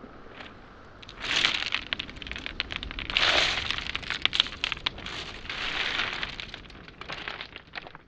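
Footsteps crunching and clattering over beach pebbles and small boulders, with many sharp stone clicks and three louder swells about two seconds apart.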